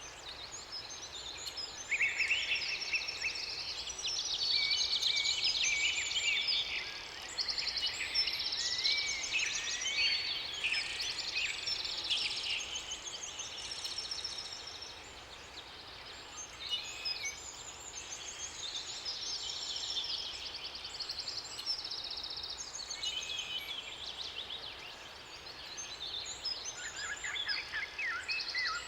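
Several songbirds singing at once in overlapping trills, chirps and whistled phrases over a steady background hiss. The chorus is busiest in the first half and thins out briefly twice, then picks up again near the end.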